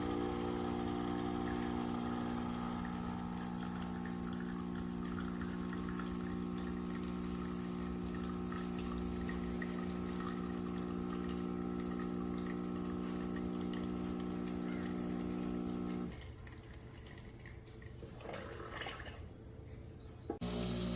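Espresso machine's pump running with a steady hum for about sixteen seconds while water flows, then cutting off suddenly, followed by faint dripping and trickling.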